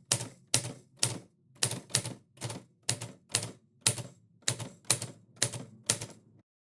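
Typewriter keys striking one at a time at about two strokes a second, each a sharp clack with a lighter follow-up click, about a dozen in all, then stopping shortly before the end.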